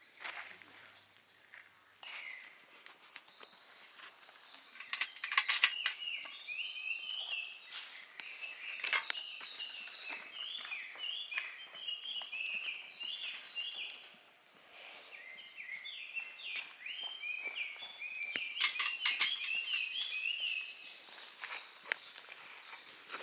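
A songbird singing long runs of quick, repeated chirping notes, pausing briefly about halfway through. Scattered sharp clicks and knocks sound over the song.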